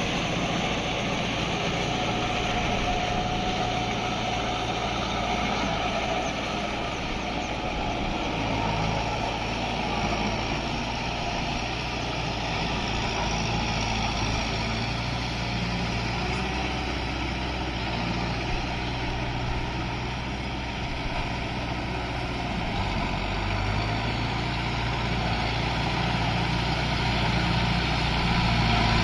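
Kubota MU5502 4WD tractor's four-cylinder diesel engine running steadily while working in deep mud, getting a little louder near the end.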